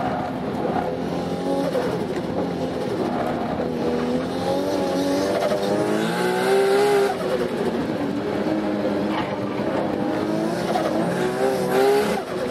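Nissan RB26 straight-six with a single T04Z turbo, heard from inside the car's cabin while racing on track. Its note climbs in pitch under acceleration, falls sharply about seven seconds in, then climbs again and falls once more near the end.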